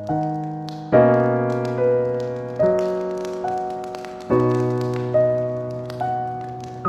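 Slow, gentle solo piano music: soft chords and single notes struck every second or two, each left to ring and fade. Faint fire crackling runs behind it.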